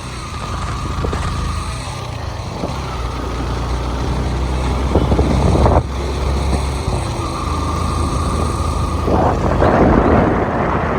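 Motorcycle engine running while riding, with wind rushing over the microphone. The low engine note is steady, with a few louder swells, the loudest about five seconds in and again near the end.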